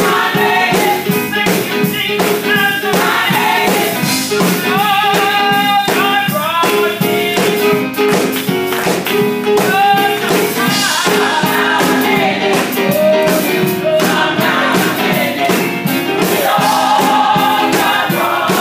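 Gospel music: a choir and singers over band accompaniment with a steady beat.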